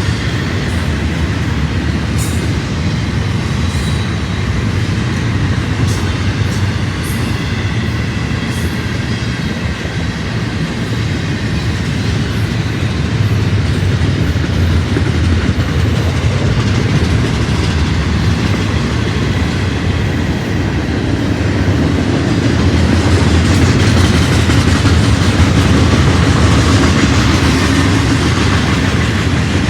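A train rolling past close by: a steady rumble of steel wheels on the rails with rhythmic clickety-clack over the joints, and a faint high wheel squeal and a few sharp clicks in the first ten seconds.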